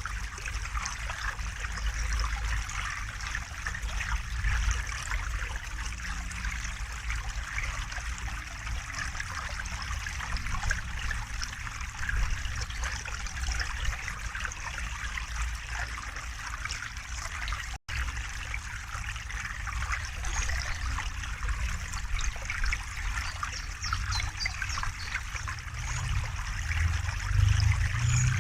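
River water flowing and trickling steadily. The sound cuts out for an instant about two-thirds of the way through, and a low rumble swells near the end.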